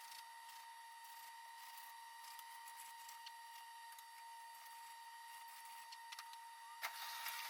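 Faint, steady hiss from a compressed-air paint spray gun laying base coat, with a thin steady whine underneath. Near the end the hiss grows louder for under a second, broken by a few clicks.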